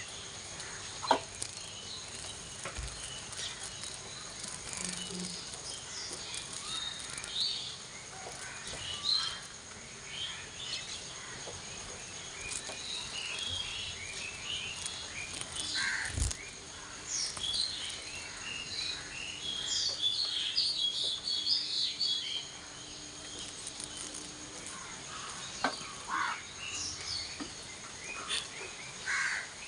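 Outdoor ambience of birds chirping: short scattered calls throughout, busiest around the middle. A few sharp clicks stand out.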